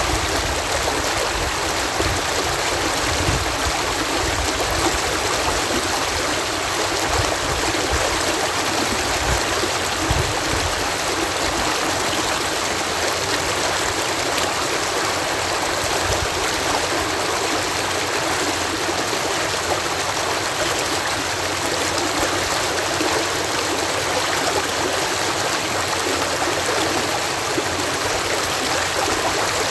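Water cascading over a canal lock, a steady rushing with low rumbles in the first third.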